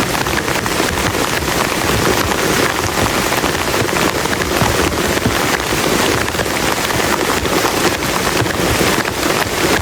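Very heavy rain drumming steadily on a plastic tarp, a dense patter of countless drop impacts.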